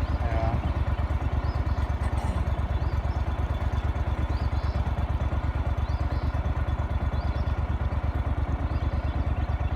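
Small engine running steadily at an even speed, a fast low throb with no change in pace.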